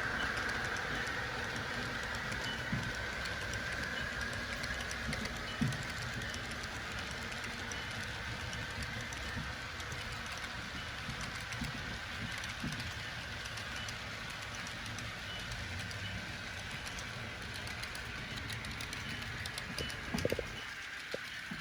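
HO-scale model train running on the layout. A steady high whine is loudest at the start and fades over several seconds over a low rumble, with a few light clicks, the largest near the end.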